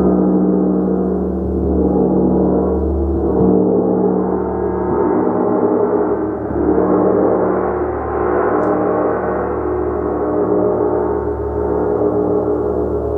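Gong played continuously in a sustained, swelling wash of many overlapping tones, pulsing gently and building to a brighter swell about two-thirds through.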